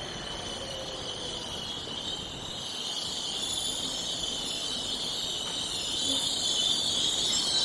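High-pitched metallic squeal from a Seoul Subway Line 1 train, held steady and growing gradually louder over a low rumble as the train draws nearer.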